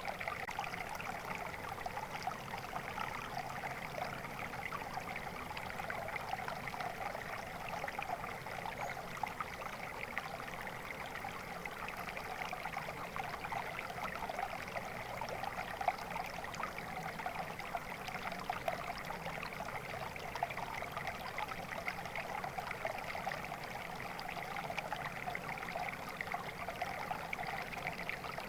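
Flowing stream water running steadily, a constant babbling and trickling rush without pauses.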